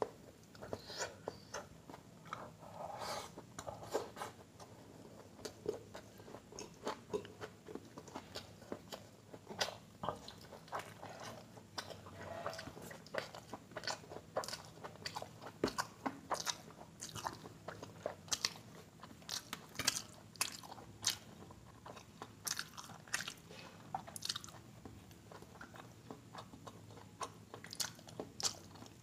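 A man chewing a mouthful of rice and curry eaten by hand, with a steady run of short, wet smacking and chewing clicks.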